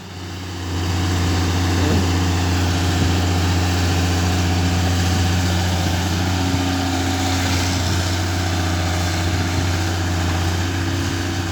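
Backhoe's diesel engine running steadily with a deep, even hum; it grows louder about a second in, then holds.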